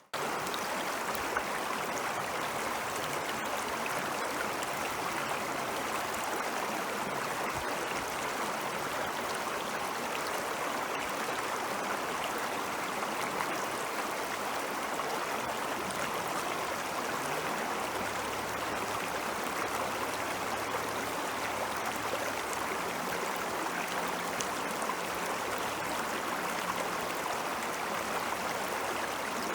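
Ice-melt stream flowing steadily: an even rushing of running water.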